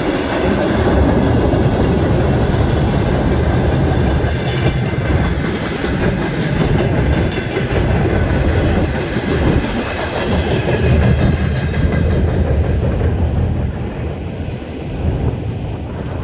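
Freight train wagons rolling past with a steady rumble and wheels clacking over the rail joints. The hiss of the train fades in the last few seconds as it draws away.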